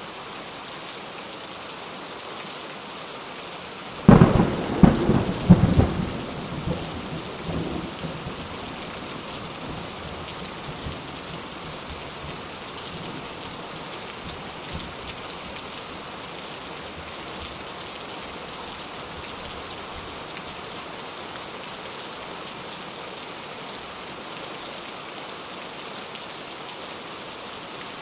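Steady rainfall with a close thunderclap about four seconds in: several sharp cracks over about two seconds, then a rumble that fades out, and the rain carries on.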